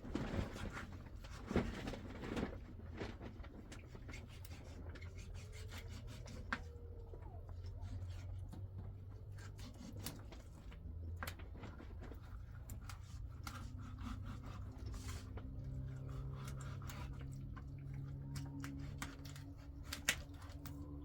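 Scattered light clicks and knocks with some rubbing, over a low steady hum.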